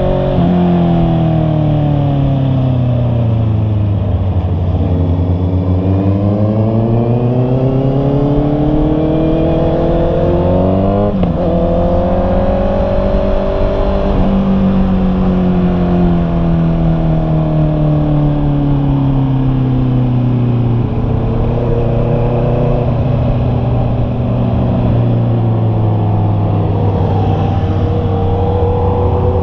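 Honda CB650R's inline-four engine pulling through the gears: the revs drop, climb for several seconds, fall sharply at a gear change about eleven seconds in, climb again, ease off slowly, and rise once more near the end.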